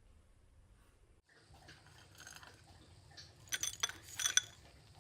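A metal spoon clinking and scraping against a dish of ice cream, with a handful of sharp ringing clinks in the second half.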